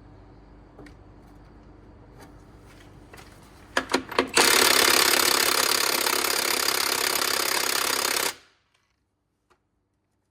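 An impact wrench hammering on a bolt: a few short blips about four seconds in, then a steady run of about four seconds that cuts off suddenly.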